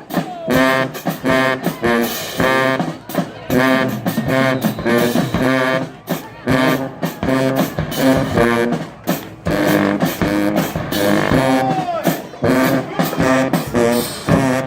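High school band playing brass and drums: short, punchy repeated brass notes over a steady drum beat.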